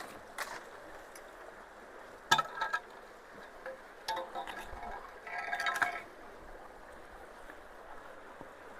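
Creek water running steadily through culverts under a low-water bridge, with short metallic clinks that ring briefly, about two and a half seconds in, again at four seconds, and a longer cluster around five to six seconds.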